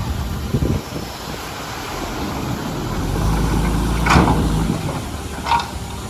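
Heavy diesel engine of a dump truck or bulldozer running at low revs, its low hum swelling a few seconds in, with a sharp clank about four seconds in and a shorter knock near the end.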